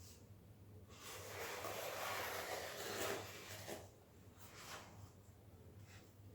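Hand scraper spreading tile adhesive: a rough scrape lasting about three seconds, starting about a second in, then a few light taps.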